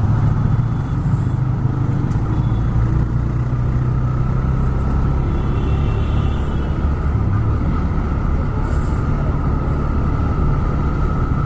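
TVS Raider 125's single-cylinder engine running steadily at cruising speed while riding, with road and wind noise.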